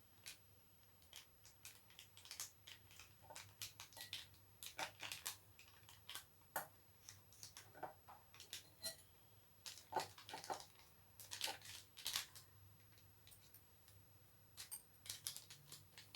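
Faint, scattered clicks and scrapes of a spoon scooping multani mitti (fuller's earth) powder from its container, thickest between about four and twelve seconds in.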